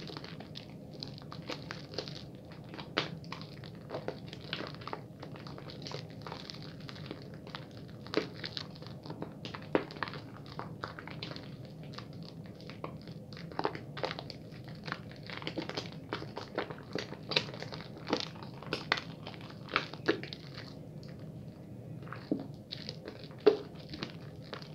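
Bar soap being lathered in the hands at a fast-ish pace: wet, crackly squishing and clicking, irregular and continuous, over a low steady hum.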